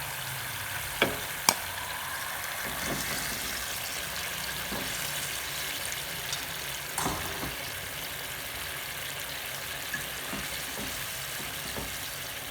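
Food frying in hot oil in a pan, a steady sizzle with a few sharp clicks and taps, the loudest about a second and a half in.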